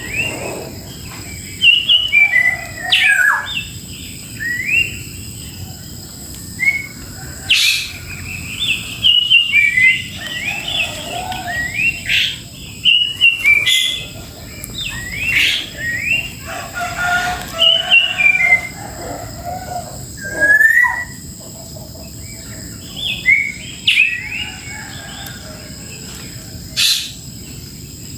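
Songbirds chirping and calling: many short, quick rising notes in repeated bursts, with a few lower notes between them.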